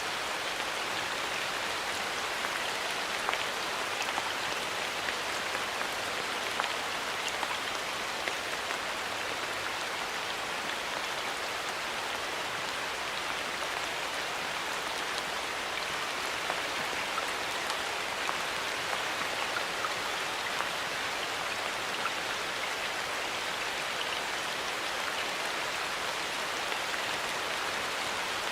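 Steady rain falling in a forest, a continuous hiss with many scattered individual drops tapping on leaves and surfaces.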